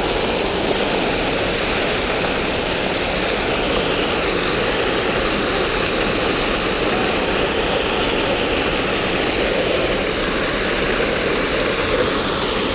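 Waterfall's falling water, a steady rushing roar with no breaks.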